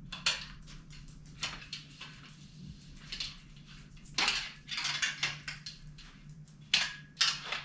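Metal clothes drying rack being assembled by hand: its rods and joints clatter and click irregularly. There is a denser run of rattling about four seconds in and a few sharp clicks near the end.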